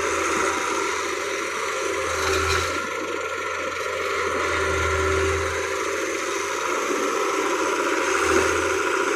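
Heavy machinery's diesel engine running steadily, its low hum swelling a few times under changing load, with some rattling.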